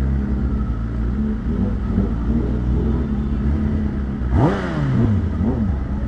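Superbike engine idling and rolling at low speed, then revved sharply about four and a half seconds in, the pitch rising quickly and falling back, with a second shorter blip of the throttle a second later.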